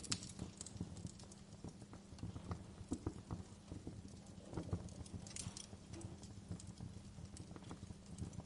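Wood fire crackling, with irregular pops and snaps over a low steady rumble, and a quick run of sharper crackles about five seconds in.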